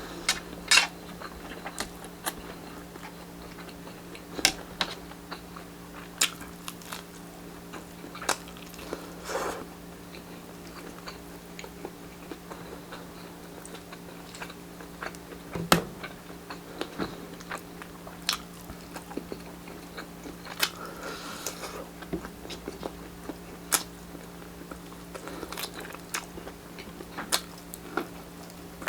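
Close-miked chewing and biting of grilled street-food barbecue: irregular wet clicks and short crunches, over a steady low hum.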